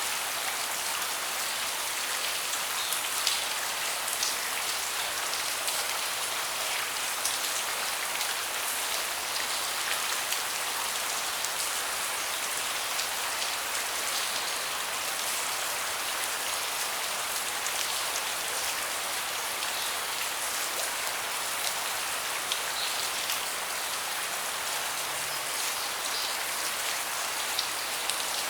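Steady rain falling on a deck, an even hiss with scattered louder single drops.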